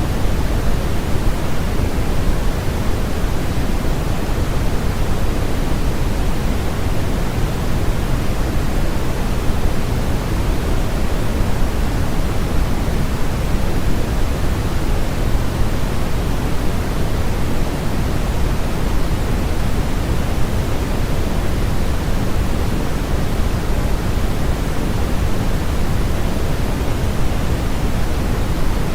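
Steady generated noise for sleep: an unbroken, even hiss with no changes, weighted toward the low end, so it sounds deeper and softer than flat white noise.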